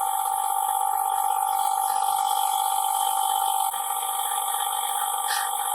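A machine running steadily with a constant whine and hiss; its tone shifts slightly a little past halfway.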